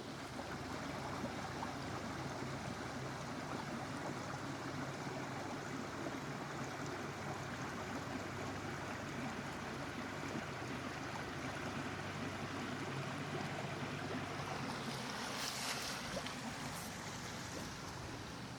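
Steady rushing of flowing stream water, with a brief brighter hiss near the end.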